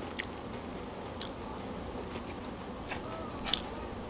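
Close-up chewing of a mouthful of lasagna and rice, with four light clicks of a metal fork against the plate.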